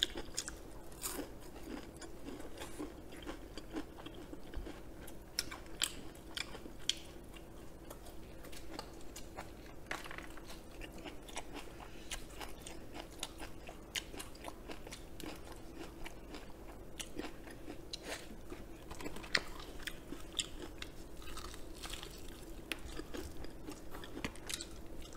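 Close-miked chewing and biting into crispy fried chicken, with many short crisp crunches scattered throughout. A faint steady hum runs underneath.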